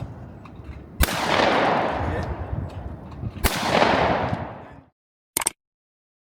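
Two shotgun shots about two and a half seconds apart, each followed by a long rolling echo that dies away; the sound cuts off suddenly shortly after the second.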